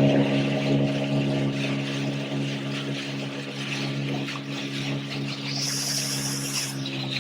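Speedboat engine running steadily over the rush of water along the hull, easing off and getting a little quieter through the first few seconds. A brief hiss cuts in about five and a half seconds in and lasts about a second.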